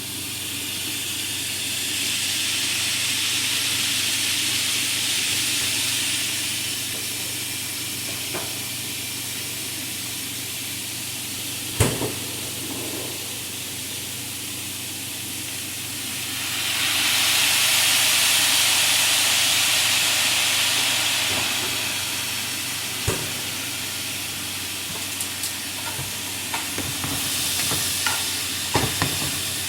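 Seasoned chicken drumsticks sizzling in hot oil in a frying pan, a steady hiss that swells twice, with a few knocks in the pan.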